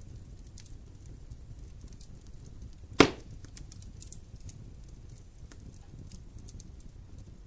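Wood fire crackling in a fireplace, with scattered small snaps and one loud pop about three seconds in, over a low steady rumble of the flames.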